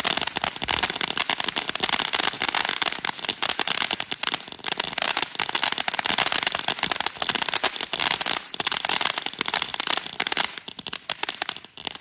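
TNT Bottle of Sparks ground fountain firework crackling: a dense run of rapid sharp pops over a hiss of spraying sparks, thinning out near the end as the fountain dies down.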